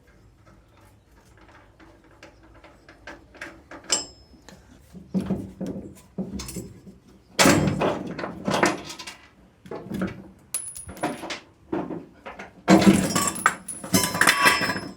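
Metal tools and parts clinking and clattering in a garage workshop: a run of knocks, rattles and short ringing clinks, busiest about halfway through and again near the end.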